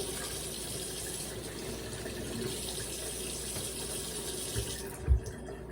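Water tap running as strawberries are rinsed under it, a steady rush of water that shuts off about five seconds in, with a couple of low thumps around the shut-off.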